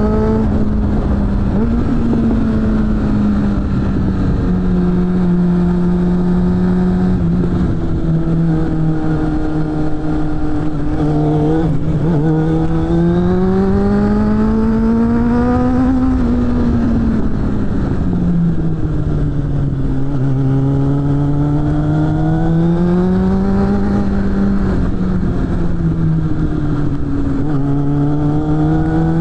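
Suzuki GSF600 Bandit's inline-four engine running through a BOS aftermarket exhaust under riding load. The engine note climbs and falls slowly several times, with a brief break in the note about twelve seconds in, over a steady low rush of wind.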